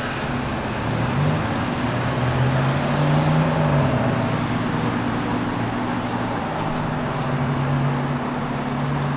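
Motor of a powered vacuum cleaner running steadily, with a low hum under a broad rushing noise; the hum's pitch wavers up and down a little between about one and four seconds in.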